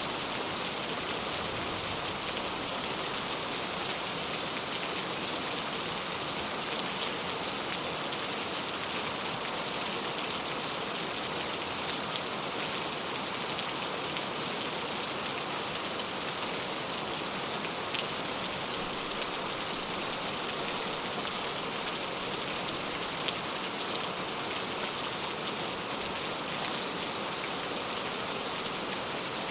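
Steady rain falling: a dense, even hiss of many drops, with a few sharper single drop hits standing out.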